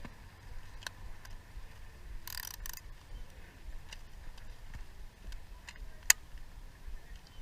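Small hard objects being handled: scattered light clicks and a short rustle about two and a half seconds in, with one sharp click about six seconds in, typical of plastic toys and figures being sorted through by hand.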